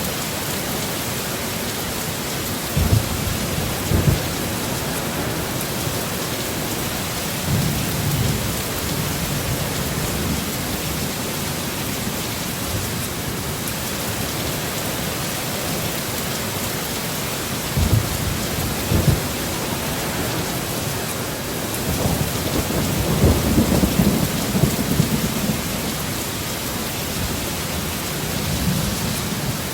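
Heavy, steady rain in a storm, with low rumbles of thunder breaking in several times: short booms a few seconds in and again past the middle, and a longer rolling rumble a little after that.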